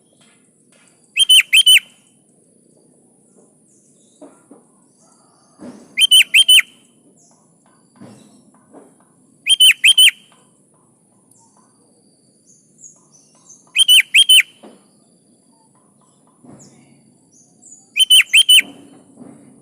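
Sooty-headed bulbul (kutilang) calling in five short, loud bursts, each of three or four sharp notes, about four seconds apart.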